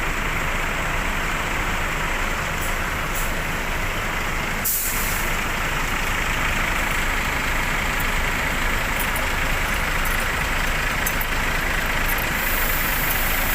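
Buses' diesel engines running steadily, with a brief hiss of air about five seconds in and more hissing near the end, typical of bus air brakes.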